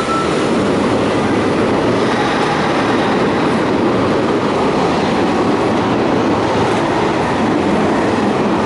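Electric train running in an underground station, a steady, loud rumbling noise.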